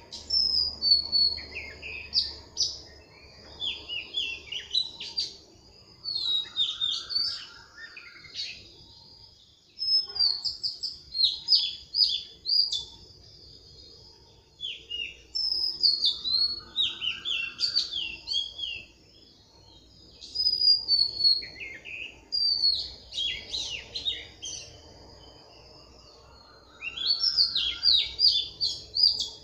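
Birdsong: chirps and trills in bursts of a few seconds with short lulls between them, and a lower rising warble that comes back about every ten seconds.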